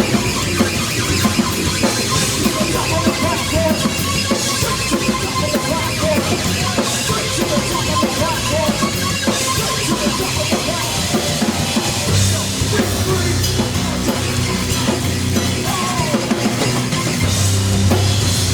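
Live heavy rock band playing loudly: a full drum kit driving the beat under sustained bass lines, which come in strongly about two-thirds of the way through.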